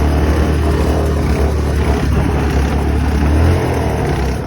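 Off-road vehicle's engine running hard under load as it drives through a deep mud hole, with a steady low drone that eases off about three and a half seconds in.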